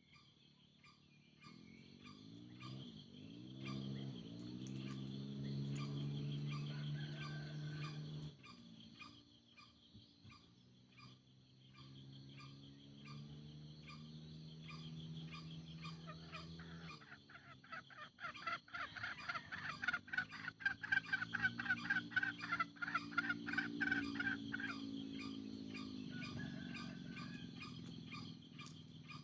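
Green junglefowl calls from a lure recording: three long, low, drawn-out calls, each rising at its onset, over a steady high insect chorus. A rapid pulsing buzz sits over the third call in the second half and is the loudest sound.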